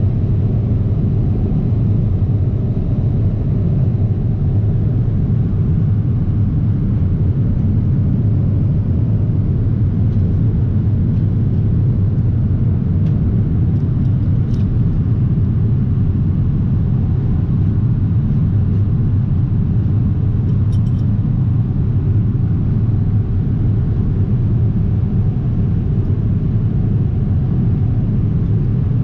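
Steady low rumble of cabin noise aboard a Boeing 777-300ER in cruise, the engine and airflow noise heard from an economy seat. A few faint clinks come about halfway through and again about two-thirds through.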